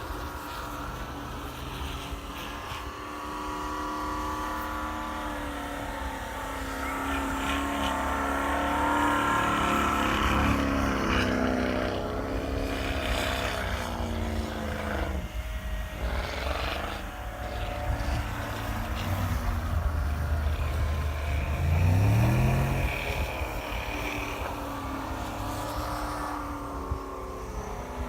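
Pickup truck engines revving and pulling through snow, the pitch rising and falling with the throttle, with one quick sharp rev about three-quarters of the way through.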